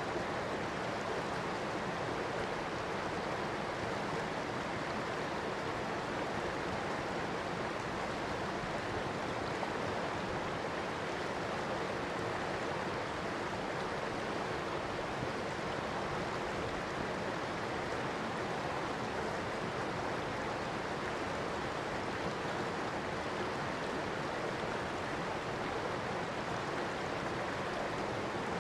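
River water flowing steadily, a constant rushing with no breaks.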